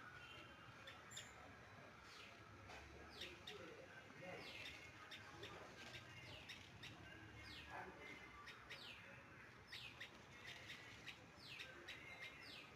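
Faint bird chirps: many short, quick, downward-sliding notes repeating throughout, over a faint low rumble of wind.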